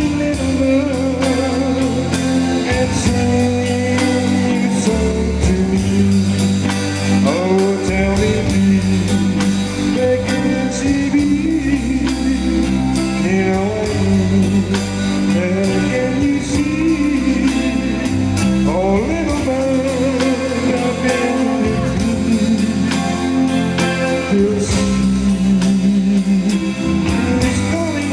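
Live band playing a song: guitars over bass and drums, at a steady tempo.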